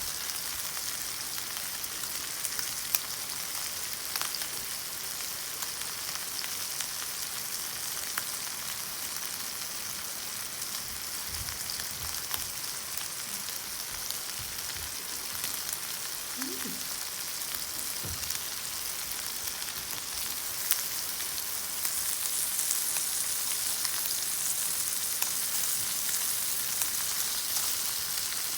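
Beef sizzling in a cast-iron pan over a wood fire: a steady frying hiss with scattered sharp pops and crackles, growing a little louder in the last third.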